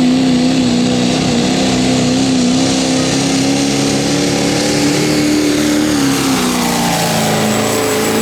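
Diesel pulling truck's engine running hard at high revs under load. Its pitch holds steady, dips about six to seven seconds in, and then climbs back.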